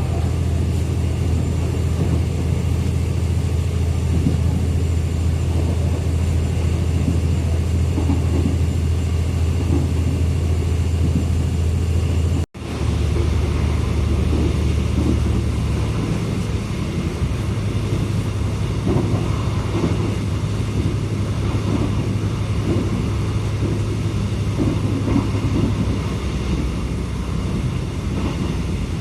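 Airport rail-link train running, with a steady low rumble and hum of the moving carriages. The sound breaks off for an instant about twelve seconds in, then goes on with a changed low hum.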